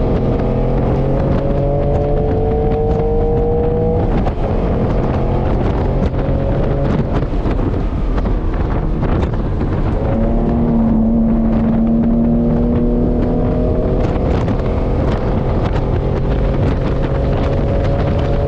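A vintage sports car's engine, heard from inside the cabin, being driven hard on a race track. Its pitch climbs under acceleration, drops sharply at a gear change about four seconds in, climbs again, and holds a steadier note for a few seconds past the middle before rising once more.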